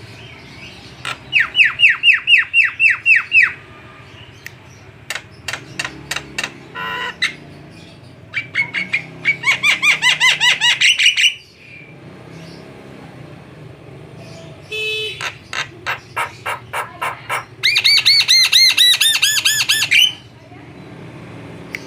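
Javan myna singing: three loud runs of rapidly repeated, sweeping high notes, with trains of sharp clicking notes and a harsh call between them. A low, steady hum runs underneath.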